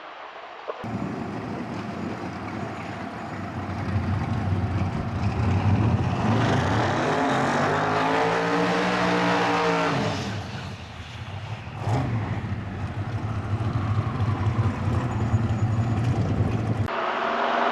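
Twin-turbo V8 of an outlaw 10.5 drag-racing Camaro running loud, its pitch rising and then falling in the middle, with a short dip in loudness after it. The sound changes abruptly about a second in and again near the end.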